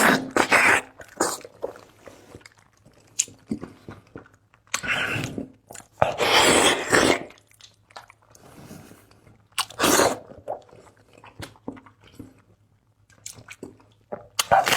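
Close-miked biting and chewing of braised beef hoof, with loud bites and smacking bursts about 5, 6 to 7 and 10 seconds in and quieter wet clicks between them.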